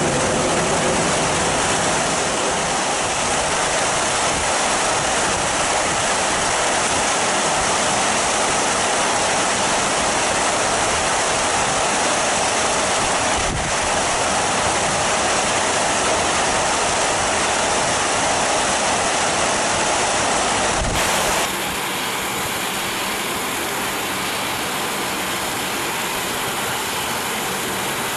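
Heavy tropical rain pouring down: a loud, steady hiss. The sound cuts briefly about halfway through, and about two-thirds of the way in it changes and gets a little quieter.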